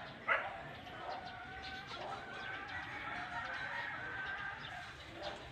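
A rooster crowing: one long, drawn-out call lasting several seconds, just after a brief sharp sound at the very start.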